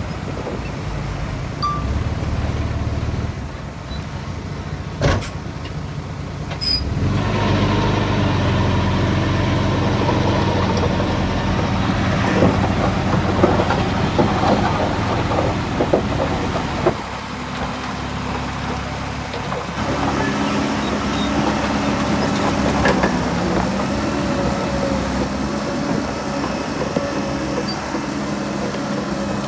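Heavy diesel earthmoving machinery running under load, the engine note rising and falling as it works. It gets louder about seven seconds in and eases off about seventeen seconds in, with a sharp click about five seconds in.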